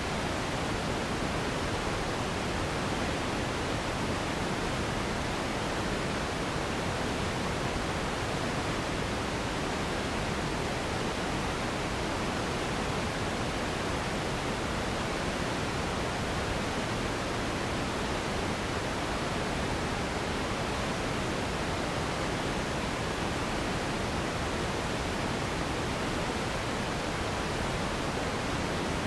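Steady sleep noise: an even, unchanging hiss with no rhythm, tone or breaks.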